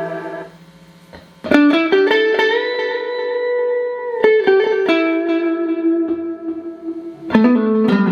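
Clean electric guitar (a Strat) played through a Boss RV-6 digital reverb and Boss GE-7 equalizer into two Roland JC-120 amps in stereo. A held note fades out into a brief lull. Then come a quick run of picked notes settling into a ringing held note with a slight bend, a new phrase about four seconds in, and a fresh strum near the end, each note trailing off in reverb.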